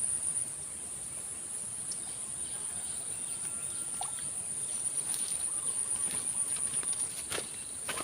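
Insects trilling in a steady high buzz, with a few faint clicks.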